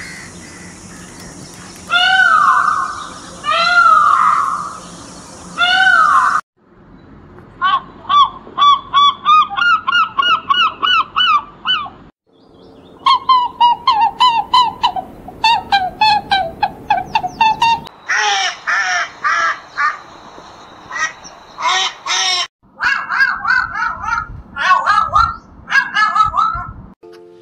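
Bird calls across several spliced clips: three loud, long peacock calls rising and falling in pitch, then, after a sudden cut, runs of rapid short chattering calls several a second, broken by brief silences.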